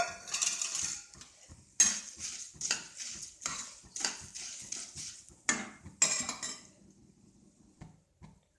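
Puffed rice being stirred in a kadai with its tempering, a spoon scraping and knocking against the pan in quick strokes. The strokes stop about six and a half seconds in.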